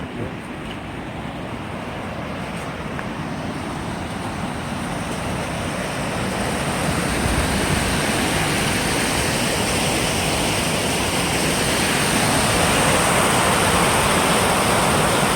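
Rushing waterfall, a steady roar of falling water that grows louder over the first several seconds and then holds steady.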